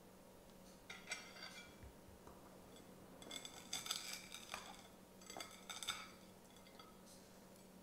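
Knife and fork scraping and clinking against a plate while cutting a deep-fried croquette, in three short, faint spells: about a second in, around the middle, and just before the end.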